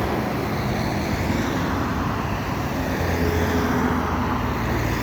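City street traffic: the steady noise of passing vehicles, with engines droning low and a heavier engine tone rising about three seconds in.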